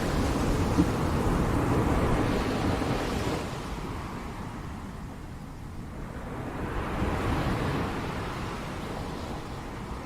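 Ocean surf washing on the beach, swelling and fading as the waves come in, with wind rumbling on the microphone.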